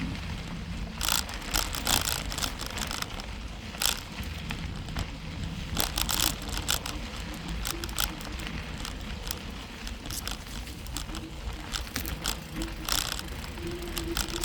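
Bicycle ridden along a trail: irregular clicks and rattles from the bike over a steady low rumble of tyres and wind.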